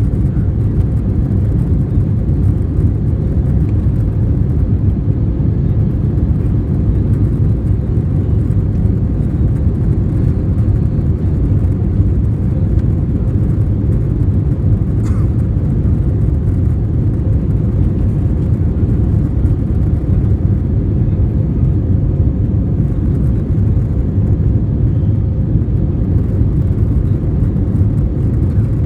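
Airbus A320 cabin noise heard from a window seat after takeoff: a steady low rumble of jet engines and airflow.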